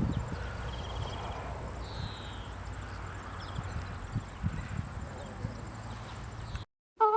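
A horse or pony outdoors with occasional low thuds of its hooves on the ground, over a faint steady chirring of crickets. The sound cuts off abruptly near the end.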